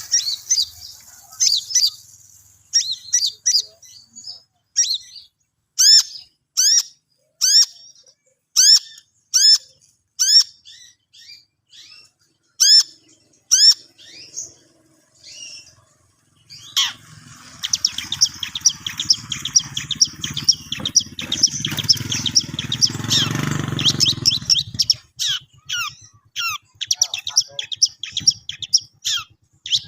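Long-tailed shrike (cendet) singing: a string of sharp, repeated downward-hooked notes about one or two a second, breaking into a fast continuous chattering song for several seconds past the middle, over a low rumble, before returning to separate notes near the end.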